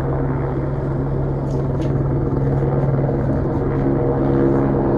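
Helicopter flying overhead: a steady drone of engine and rotor, with a low hum and its overtones.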